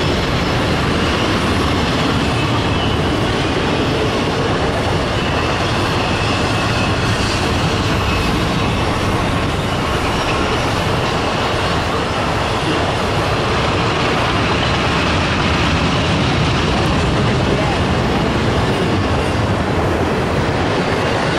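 Intermodal freight train passing at a steady speed: double-stacked container well cars and trailer flatcars rolling by, giving an even, continuous noise of wheels on rail with no break or change.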